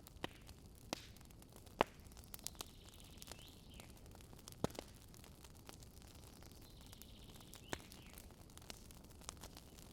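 Wood campfire burning, with irregular sharp crackles and pops from the burning wood; the loudest pops come about two seconds in and near the middle.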